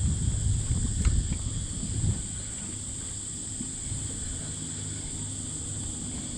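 Wind buffeting the microphone for the first couple of seconds, with a click about a second in, over a steady high-pitched buzz like insects.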